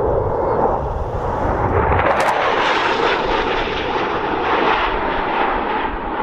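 Jet noise of a Dassault Rafale fighter flying past, swelling about two seconds in and then holding loud and steady.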